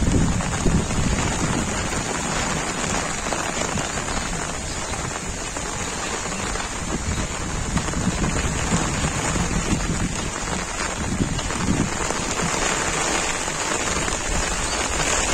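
Heavy monsoon rain falling steadily, a dense even hiss, with a low rumble underneath that swells and fades.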